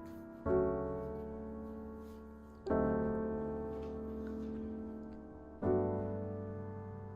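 Soft background piano music: slow chords struck about every two to three seconds, each left to ring and fade.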